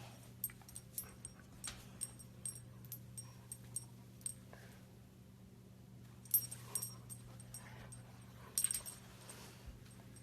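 Golden retriever puppy moving about: a run of light, sharp clicks and jingles, about two or three a second for the first four seconds, then two brief clusters near the end, over a steady low hum.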